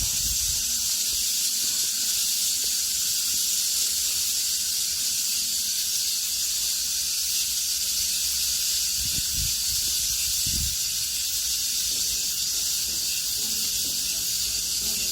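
Cicadas buzzing in a steady, loud chorus, with a few low thumps near the microphone about nine to ten seconds in.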